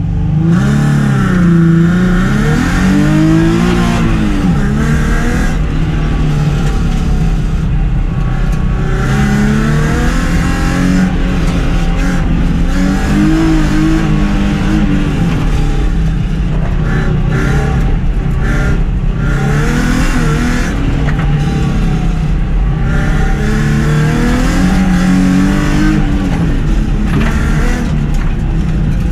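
A car's engine pulled hard through an autocross run. Its note climbs and drops again and again as the driver accelerates, lifts and shifts between corners, over a steady rumble of road and engine noise.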